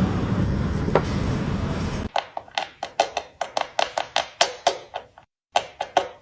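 A steady noise, then after an abrupt change a quick run of light taps, about five a second, with a short pause and a few more taps near the end.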